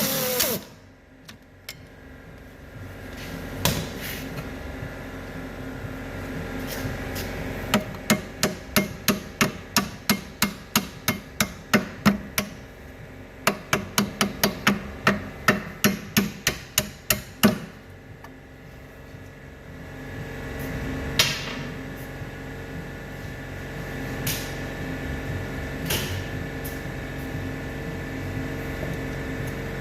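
Hammer blows striking suspension parts during a shock absorber replacement. There are two runs of about ten sharp strikes each, roughly two a second, then a few single blows further apart.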